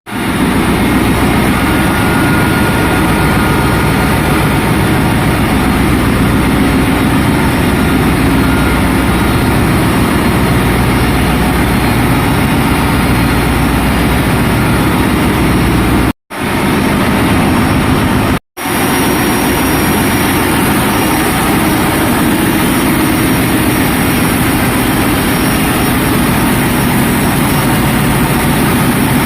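Ship's engine-room machinery running: a loud, steady din of diesel engines. It cuts out twice for a moment, about two-thirds of the way through.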